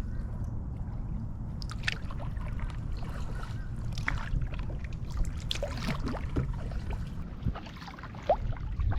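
Kayak paddling: the paddle blades dipping and water splashing and dripping in short irregular strokes, over a low steady rumble.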